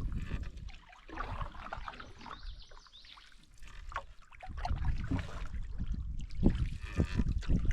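Canoe paddling: the paddle dipping and water trickling off the blade and along the hull. Gusts of wind hit the microphone at the start and again from about five seconds in.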